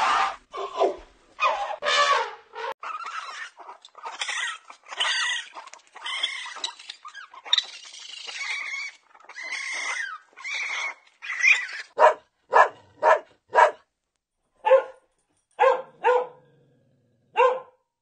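A run of high, varied squealing and chittering animal calls, then from about 12 seconds in a string of short, sharp puppy barks from a Cavalier King Charles spaniel puppy, four in quick succession and then spaced out.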